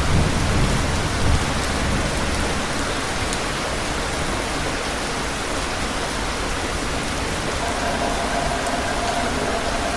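Steady rain falling and pattering on surfaces. There is a low rumble in the first two seconds, and a faint steady tone comes in near the end.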